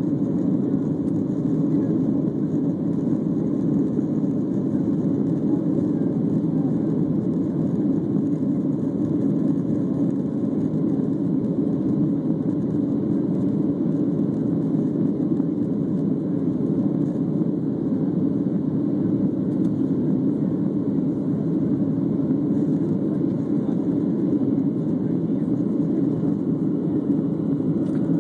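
Jet airliner heard from inside the passenger cabin: a steady, even roar of engines and rushing air with no change in pitch or level.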